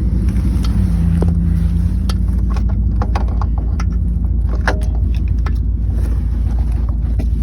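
Scattered metallic clinks, knocks and scrapes as an unbolted car starter motor is wrestled loose under the engine, over a steady low rumble.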